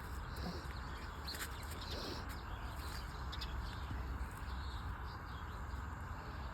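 Outdoor ambience: a few short bird chirps, two of them about half a second and two seconds in, over a steady low rumble of wind-like noise.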